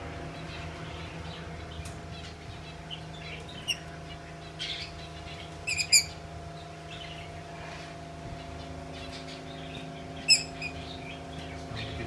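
Caged birds chirping: scattered soft chirps, with short loud calls about six seconds in and again about ten seconds in, over a steady low hum.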